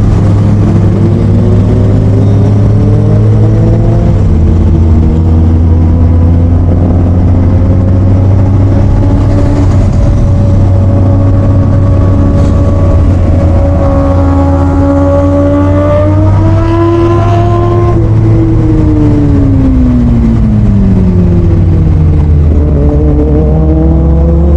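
Motorcycle engine under way, its pitch rising and falling with the throttle: it climbs over the first few seconds, drops briefly about four seconds in, climbs slowly to a peak about 17 seconds in, falls away, then rises again near the end. A steady low rumble runs underneath.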